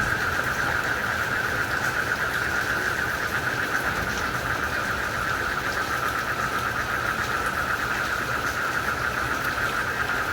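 A dense, unbroken chorus of frogs and crickets calling together in one steady high band, over an even hiss of falling rain.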